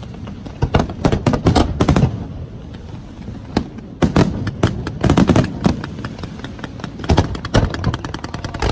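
Fireworks going off in quick irregular volleys of sharp bangs and crackling reports, with clusters of rapid shots about a second in, around four to five seconds in, and again near the end.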